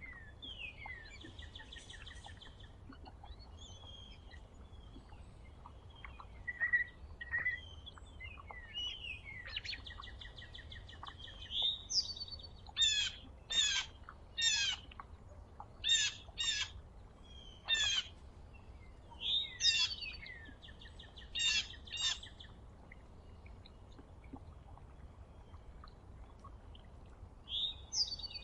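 Songbirds calling at a feeder: repeated short, sharply falling high notes, often in quick pairs, mixed with buzzy, chattering notes. The calls come in clusters, busiest in the middle, over a faint steady background hum.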